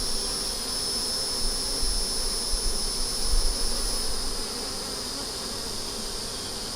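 Honey bees buzzing in a wavering drone around an opened hive during an inspection, with a steady high-pitched insect whine above it.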